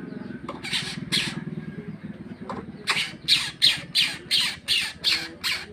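A tame coucal giving harsh, rasping squawks: two about half a second apart near the start, then a fast, even series of about three a second from about three seconds in. A low, pulsing drone sits underneath during the first half.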